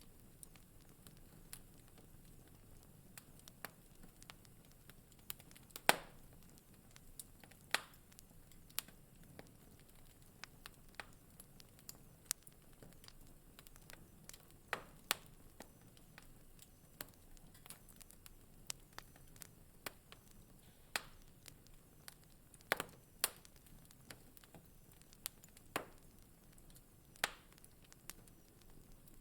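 Wood fire in a fireplace crackling: irregular sharp pops and snaps over a faint low hiss, with the loudest pop about six seconds in.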